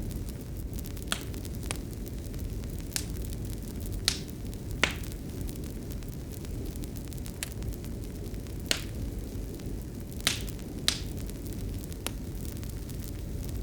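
Fireplace fire burning with a steady low rumble and irregular sharp crackles and pops, about a dozen over the span.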